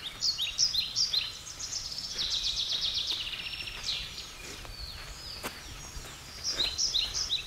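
Birds chirping, with quick high calls that sweep down and a rapid trill in the middle; one burst of chirps comes near the start and a similar burst near the end.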